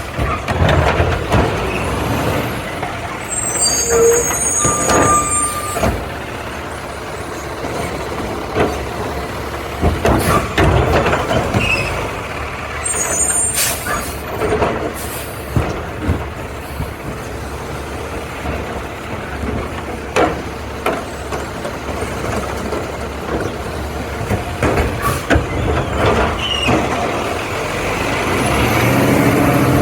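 Garbage truck at work: its engine running, with air brake hisses, several knocks and short high-pitched squeals.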